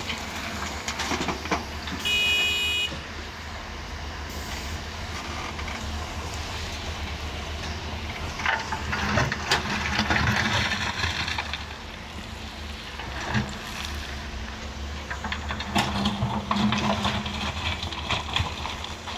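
Doosan DX140 excavator's diesel engine running steadily, with bursts of gritty rattling in the middle and again near the end as material is worked and loaded. About two seconds in there is a short high-pitched tone.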